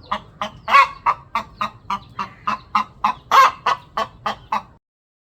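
A hen clucking in a steady run of short clucks, about three or four a second, with two louder, drawn-out calls among them; this is a hen searching for a nest to lay in. The sound cuts off suddenly near the end.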